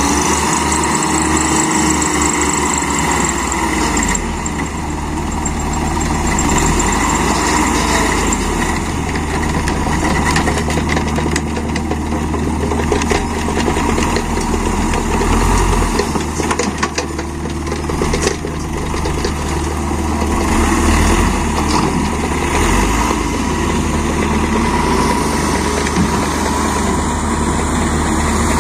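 Dump truck's diesel engine running, its revs rising and falling.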